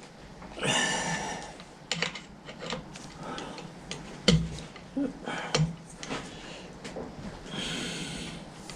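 Scattered light metal clinks and knocks as parts and tools are handled at a metal lathe, with two short hissing noises, about a second in and near the end.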